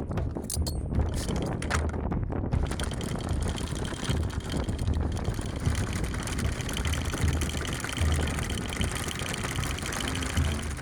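Sailing yacht's inboard engine running slowly, with a low, pulsing throb. A fast, even rattle joins about two and a half seconds in.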